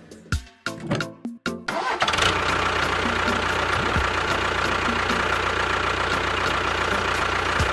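Short stretch of music, then about two seconds in a small engine starts and keeps running steadily.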